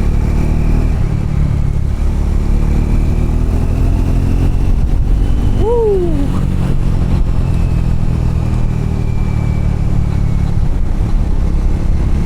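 Triumph Scrambler motorcycle engine running steadily while riding along a gravel road, with a short rising-and-falling tone about halfway through.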